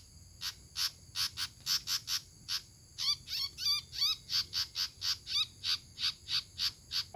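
Outdoor animal calls: a steady run of short rasping calls, about three a second, over a faint high steady drone. About three seconds in, a bird joins with a few quick warbling whistled notes.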